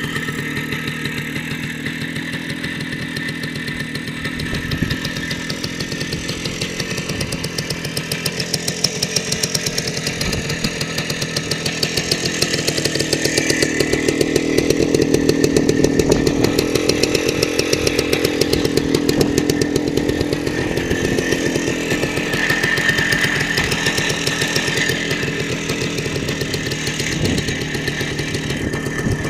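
Minsk motorcycle's two-stroke single-cylinder engine running with a rapid, even firing beat. It picks up and gets louder about halfway through, then settles back to a steadier run.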